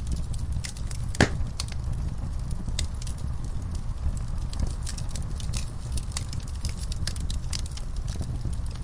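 Wood fire in a fireplace crackling: a steady low rumble with scattered sharp pops, the loudest about a second in.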